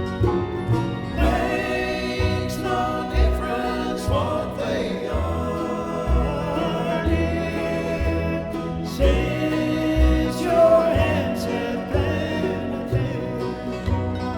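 Live bluegrass band music, with low bass notes pulsing under sustained, wavering melody lines.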